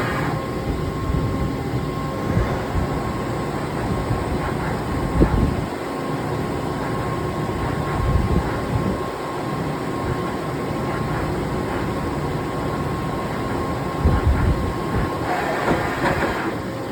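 Matsuura horizontal machining center running: a steady mechanical rumble with a thin constant whine, and a short burst of higher tones near the end.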